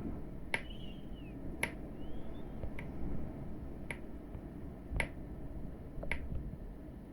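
Six sharp clicks at an even pace of about one a second, over a steady low rumble of storm wind, with two faint short chirps early in the run of clicks.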